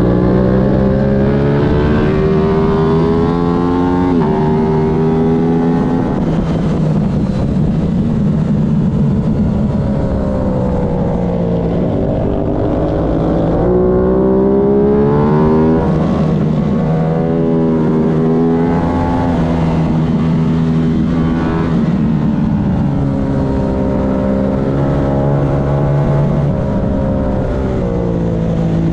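Aprilia road-racing motorcycle engine at racing speed. Its pitch climbs under throttle and steps down sharply at each gear change, over and over, with longer falls in pitch as it slows.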